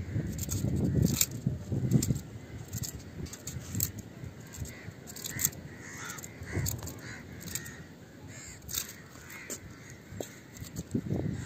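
A bird calling repeatedly with short harsh calls through the middle, over low rumbling bursts near the start and scattered small clicks.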